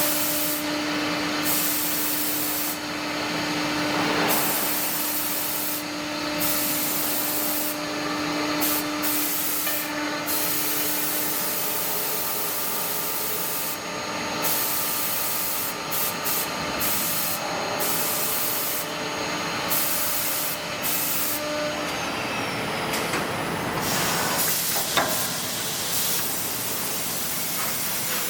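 A six-sided CNC panel drilling machine working a furniture board: steady machine running and cutting noise, with a high hiss that keeps cutting in and out. A hum tone fades about halfway through and stops near the end.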